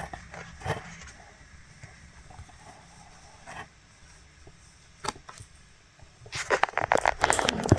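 Handling noise from a diamond painting kit's plastic parts and packaging: a few scattered light clicks and taps, then a quick flurry of sharp clicks and rustling near the end.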